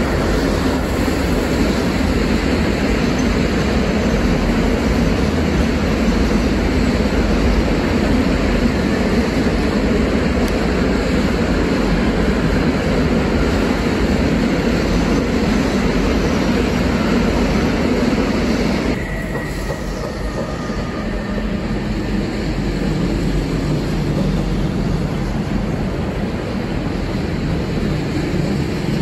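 Freight train running past on the line: a steady, loud rumble of wagons on the rails. About two-thirds of the way through, the sound drops abruptly and carries on quieter.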